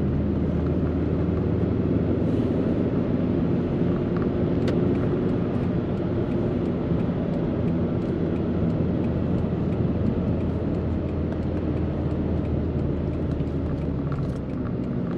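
Steady low engine and road rumble heard from inside a car's cabin.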